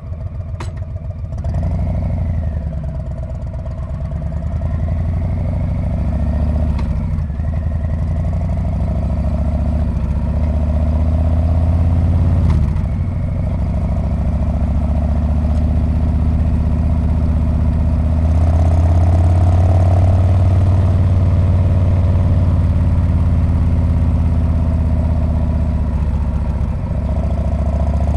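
Harley-Davidson Street Bob's V-twin engine and exhaust running under way, the note rising and easing with the throttle several times and louder through the later part. A few short clicks come through along the way.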